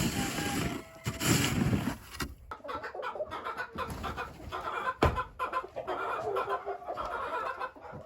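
A flock of chickens clucking and chattering in many short calls. Two loud, noisy rustles come in the first two seconds, and a single sharp click about five seconds in.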